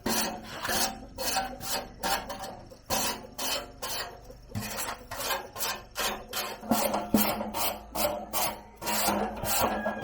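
Hand file rasping back and forth in steady, even strokes, about two to three a second.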